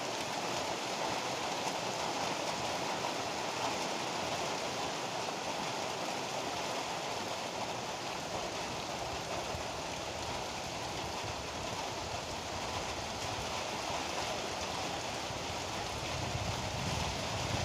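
Heavy rain falling steadily in a dense, even hiss. A low rumble begins to build near the end.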